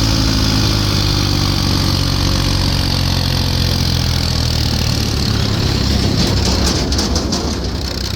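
Diesel tractor engine running with a steady note that turns rougher and noisier about halfway through, with a short run of clicks or rattles near the end.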